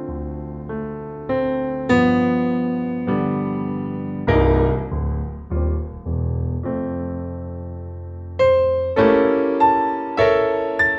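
Solo piano music: slow chords and single notes struck and left to ring and fade, with the notes coming more quickly near the end.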